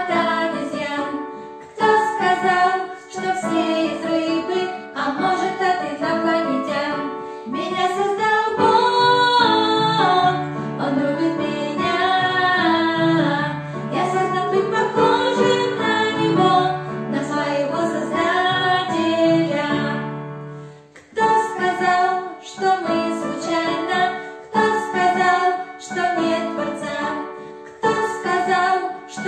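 A song sung by a female voice with instrumental accompaniment. From about 8 seconds in, a middle section with long, held bass notes runs under the voice. It breaks off with a short dip about 21 seconds in, and the first, choppier part then returns.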